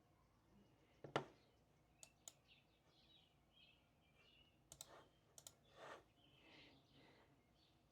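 Near-quiet room with a few faint scattered clicks and taps, the sharpest about a second in, and faint bird chirps.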